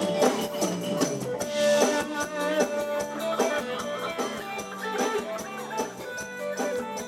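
Live band playing the instrumental intro of a Thai folk-style song, a pitched melody line over a steady drum and percussion beat.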